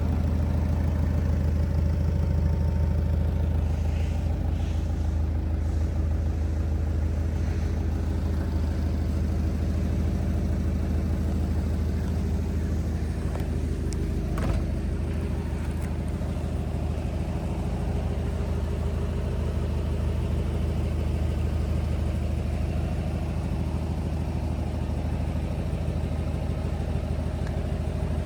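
Turbocharged Scion FR-S's flat-four boxer engine idling steadily, with a single short click about halfway through.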